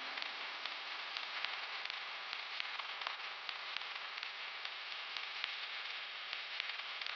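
Steady static-like hiss with faint, scattered crackles, even in level throughout.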